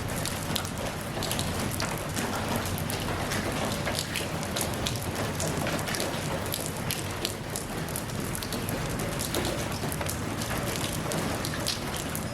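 Steady rain falling, with many separate drops ticking sharply on a surface over an even hiss of rainfall.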